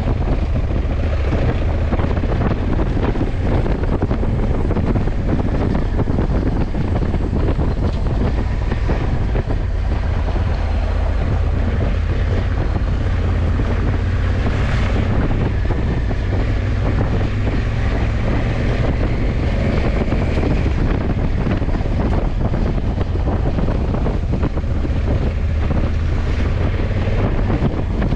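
Motorcycle riding at steady speed: the 2020 Honda CRF1100 Africa Twin's parallel-twin engine runs under heavy wind noise on the microphone. The wind swells briefly about halfway through.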